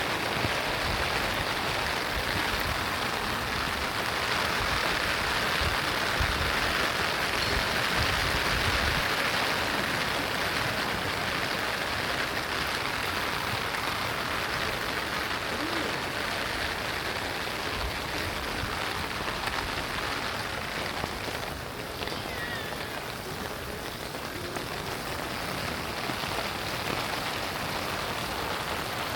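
Steady rain falling, an even hiss with a brief softening about three quarters of the way through.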